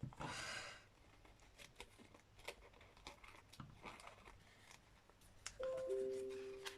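Scissors snipping paper: a short rustle of paper at the start, then a string of small snips and clicks. Near the end a brief steady tone sounds, stepping down in pitch twice.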